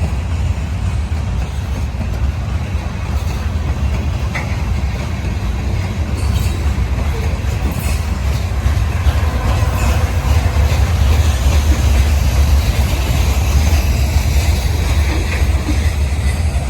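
Slow-moving freight train passing close by, a steady deep rumble of locomotives and wheels on rail, a little louder in the second half.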